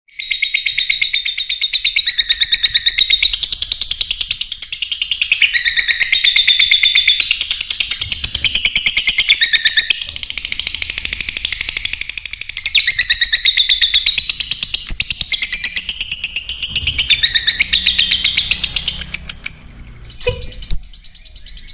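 Lovebirds chirping and chattering in a dense, rapid, high-pitched stream without a break, stopping about 20 seconds in, followed by a couple of short clicks.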